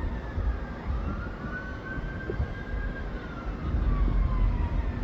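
Emergency vehicle siren in a slow wail, its pitch rising for about two seconds, then falling, over a steady low rumble.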